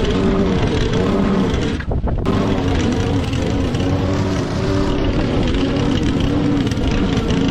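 Petrol lawn mower engine running steadily under load, mowing long, thick, wet grass; its pitch wavers slightly and there is a brief dip about two seconds in.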